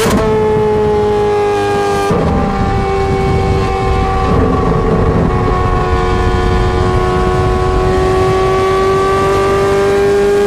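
Ferrari 430 Scuderia's V8 running hard through a straight-piped exhaust. The loud engine note breaks briefly at the start and again about two seconds in, then holds, dipping slightly and slowly rising again near the end.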